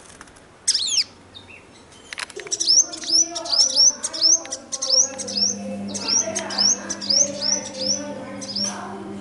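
Garden birds calling: one loud call sweeping down in pitch about a second in, then a bird repeating a short, sharp, high note about three times a second, over softer lower calls.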